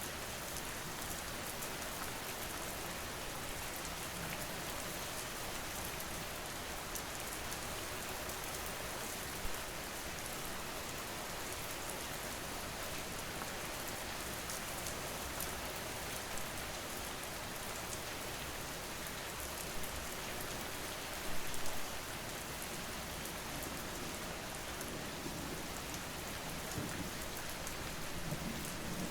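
Steady rain falling, an even hiss with a few brief louder patters, and a low rumble of thunder building near the end.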